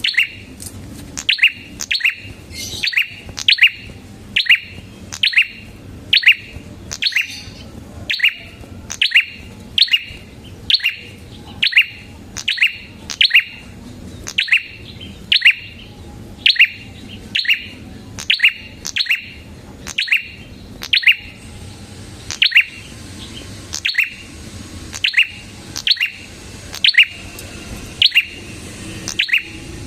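A prenjak kepala merah (a small prinia-type songbird) calling over and over in sharp, loud chirps, about one to two a second, each note dropping quickly in pitch.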